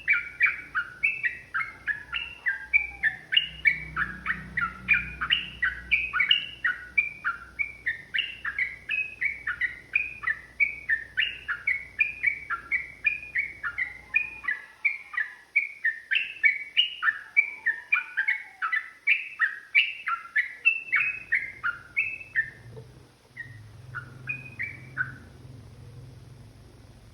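Yellow-vented bulbul (trucukan) singing a long, fast run of chattering phrases, about three notes a second. The run breaks off about 22 seconds in, and a few last notes follow.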